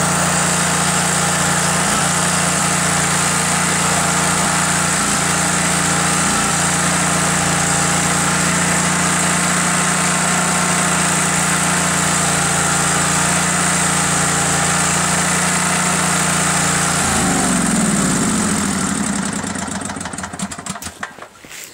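Generac 10,000-watt portable generator engine running steadily after a cold start, then shut off about seventeen seconds in, its pitch falling as it winds down to a stop.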